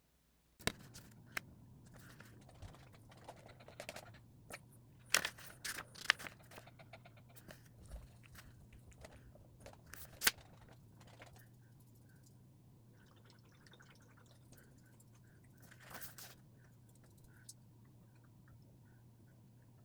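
Scattered close crunches, clicks and rustles, busiest in the first half with another brief cluster near the end, over a faint steady low hum.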